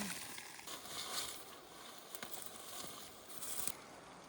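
Rustling and soft squelching of someone moving through wet bog vegetation, with a few light clicks.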